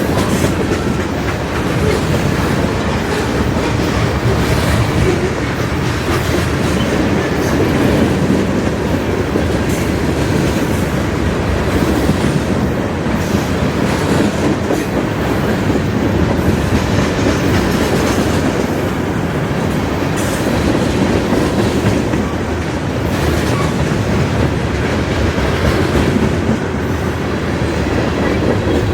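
Norfolk Southern freight train's cars rolling steadily past, the wheels clicking over the rail joints.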